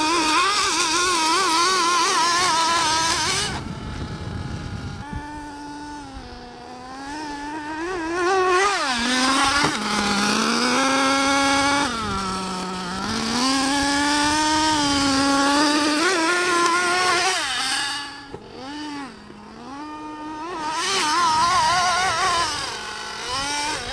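Small two-stroke engine of a radio-controlled monster truck running hard, its high-pitched note rising and falling over and over with the throttle. It drops quieter a couple of times.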